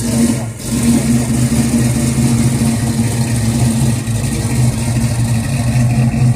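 Car engine running at a steady idle, a deep even drone that gets louder about a second in.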